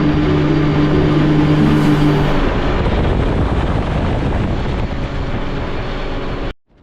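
Mini jet boat running at speed with a steady engine and water rush, over background music for the first couple of seconds. The sound cuts off abruptly near the end.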